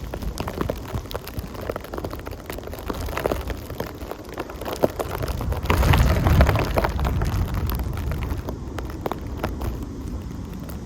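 Blizzard wind gusting against the microphone, a low rumbling buffet that swells to its strongest gust about six seconds in, with many small ticks scattered through it.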